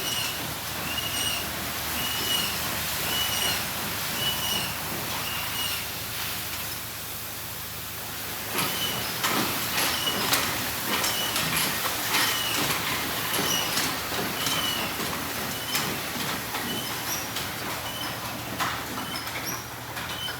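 Automatic in-bay car wash at work: a steady hiss of spray on the car, with many sharp hits and spatters. A short high chirp repeats about once a second and breaks off for a couple of seconds midway.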